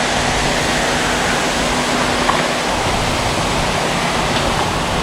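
Small creek waterfall: a steady rush of falling and running water.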